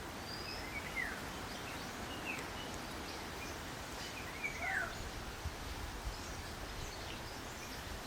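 Small birds calling: scattered short chirps and quick downward-sliding notes over a steady outdoor hiss, with the strongest calls about halfway through.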